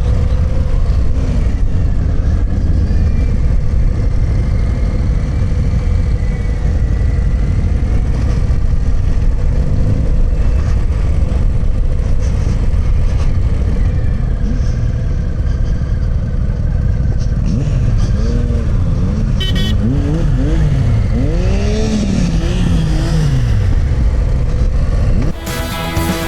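Harley-Davidson Low Rider ST's Milwaukee-Eight 117 V-twin running on the road under heavy wind noise. In the last few seconds the engine pitch rises and falls several times as it revs through the gears. Rock music cuts in just before the end.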